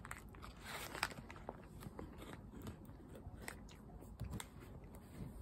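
Faint crunchy chewing of a bite of a fried chicken sandwich with lettuce and pickles, small irregular crackles, with the paper wrapper crinkling as the sandwich is handled.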